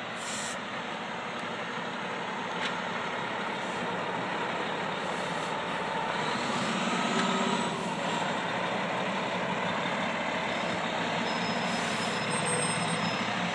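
Fire engine's engine running steadily, growing slowly louder as the truck gets ready to pull out.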